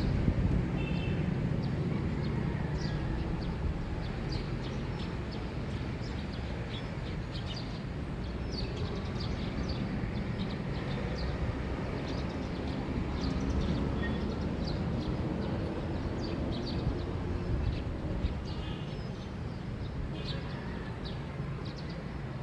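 Early-morning neighbourhood ambience: small birds chirping in short, frequent high notes over a steady low rumble.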